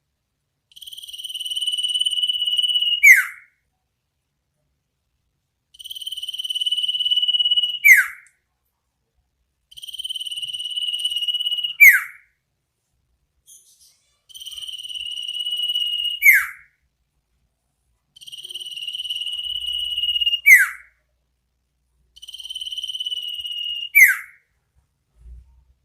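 Iora (sirtu/cipoh) calling six times, about every four seconds. Each call is a long, high, trilled note held for about two seconds, ending in a sharp, loud down-slurred whistle: the 'ngetir nyipow' call.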